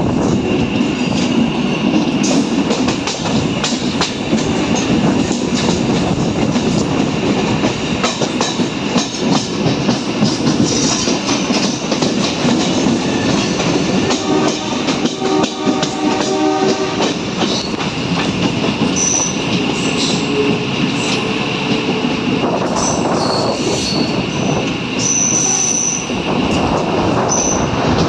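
MEMU electric suburban train heard from on board: a steady running rumble with wheel clatter over the rail joints and high wheel squeals in the second half. A horn sounds for about two seconds about halfway through.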